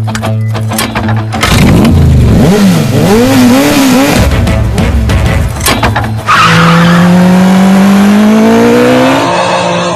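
Motorbike engine sound revving, its pitch swooping up and down several times, then climbing steadily as it accelerates.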